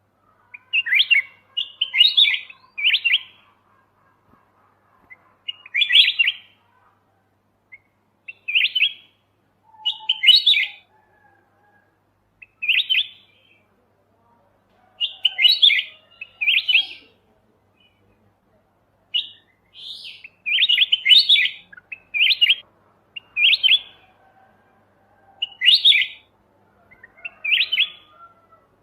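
Kutilang emas mata putih, a bulbul, singing short bright chirping phrases one after another every second or two, with brief pauses between them.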